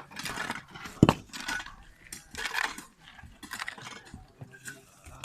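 Digging tools scraping and knocking in a drainage ditch being cleared, a stroke about every half second to a second, with one sharp loud strike about a second in.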